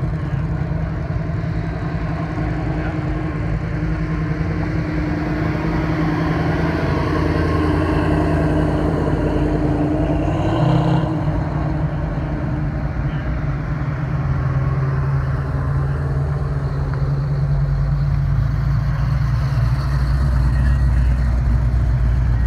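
Classic muscle cars driving slowly past one after another, their engines running at low revs. There is a short louder burst about eleven seconds in.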